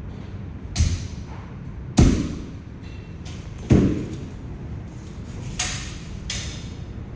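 Parts of a pull-out shelf being handled and set down during assembly: about five separate knocks and thumps. The loudest come about two seconds in and just before four seconds, and each rings on briefly.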